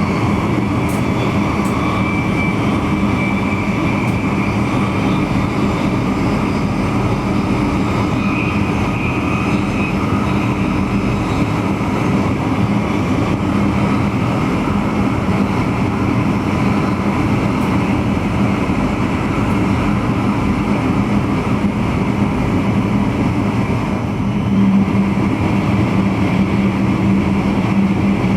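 NS VIRM double-deck electric intercity train running along the line, heard from the driver's cab: a steady rumble with a low hum and a faint high tone in the first ten seconds. The hum grows a little louder near the end.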